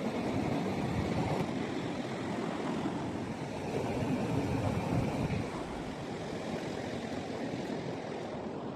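Ocean surf washing on a beach, a steady rush that swells about four to five seconds in and then eases.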